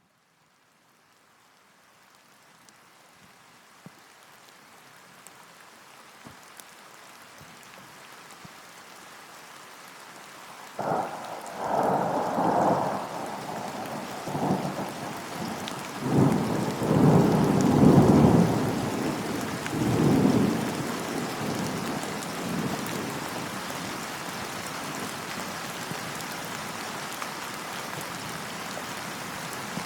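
Rain fading in from silence and growing steadily, with several peals of thunder about a third of the way in that last about ten seconds, then steady rain.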